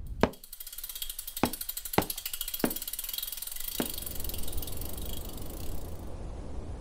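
Bicycle freewheel ratchet ticking rapidly as the wheel coasts, with five louder single clicks in the first few seconds. A steady low rumble comes in under it about four seconds in, and the ticking stops shortly before the end.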